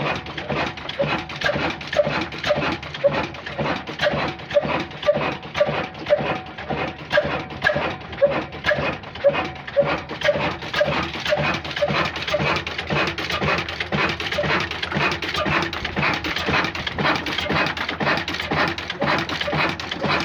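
A new diesel engine running with an even, repeating chugging beat that grows busier about halfway through.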